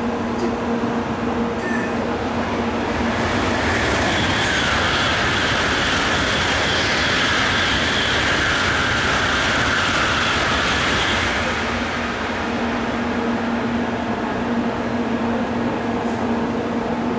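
700 series Shinkansen passing through the station without stopping: a rush of wheel and air noise with a high whine builds about three seconds in and dies away about eleven seconds in. A steady low hum runs under it before and after.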